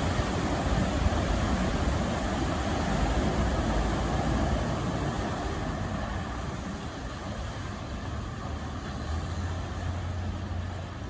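Vehicle engine running with a continuous wash of noise as the JK Jeep Wrangler drives through floodwater, growing gradually fainter over the second half.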